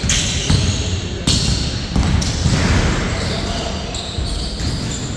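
A basketball bouncing on an indoor court during a pickup game, with several sharp thuds in the first two seconds, amid players' voices and court noise.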